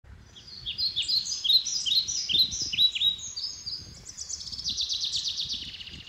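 Songbirds singing: a series of quick, high, downward-slurred chirps, then a fast trill of short notes from about four seconds in.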